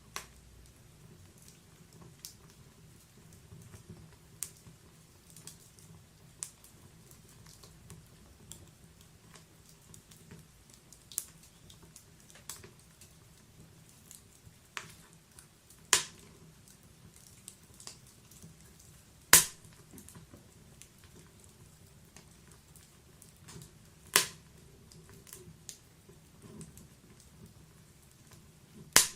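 Log-burning wood fire crackling: irregular sharp pops and snaps over a faint low hiss, with four or five much louder pops standing out.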